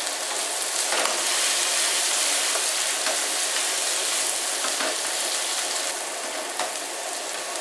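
Squid, carrot and mangetout sizzling steadily as they are stir-fried in a frying pan, stirred with a wooden spatula and tossed, with a few light knocks.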